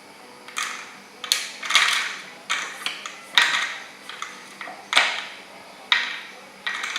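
A cat batting at a mouse-trap toy with a toy mouse spinning inside, making irregular clattering knocks and rattles, roughly one or two a second.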